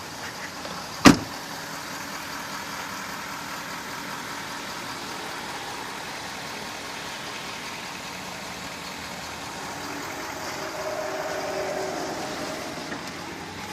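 2016 Ford F250 pickup's engine idling steadily, with one sharp knock about a second in.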